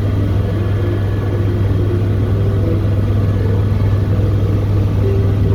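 Sightseeing helicopter's engine and rotor running steadily, a loud, even drone with a strong low hum.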